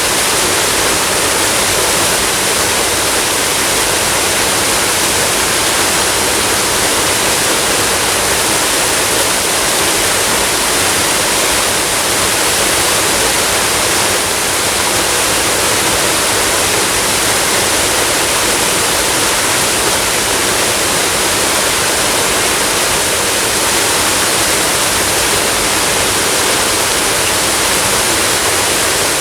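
Waterfall and flowing water rushing in a loud, steady, unbroken wash.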